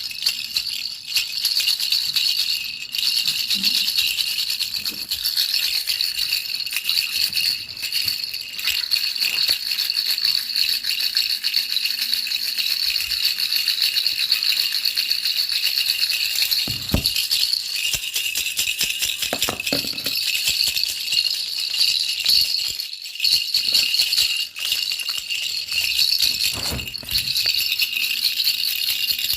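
A baby's rattle shaken nonstop, a dense, fast, high rattling that keeps going evenly. A few brief low knocks come through in the second half.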